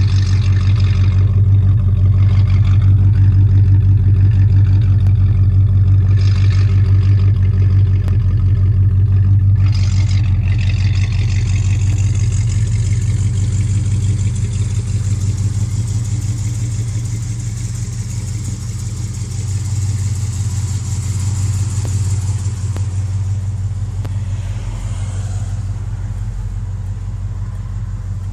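1972 Dodge Monaco's V8 exhaust running steadily at an even, low pitch like an idle, slowly getting quieter over the second half, with a hiss joining in around halfway.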